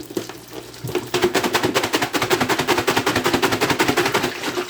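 Fast, even rattling, about eight to ten strokes a second, starting about a second in and stopping just before the end, typical of a bag of crushed hot Cheetos being shaken hard to coat a piece of chicken.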